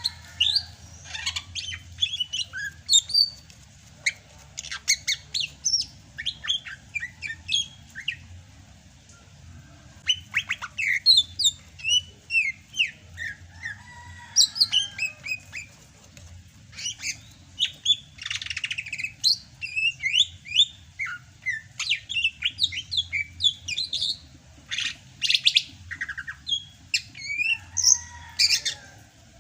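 Green leafbird (cucak hijau) singing in full voice: a fast, varied stream of chirps and quick rising and falling whistled notes, broken by a couple of short pauses.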